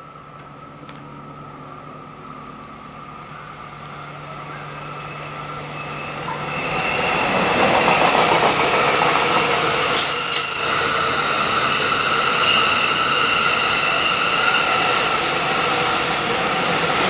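E001 series TRAIN SUITE Shiki-shima passing through a station: its running noise swells as it approaches, then stays loud and steady as the cars go by close, with steady high ringing tones over the wheel rumble. A brief sharp hiss cuts in about ten seconds in.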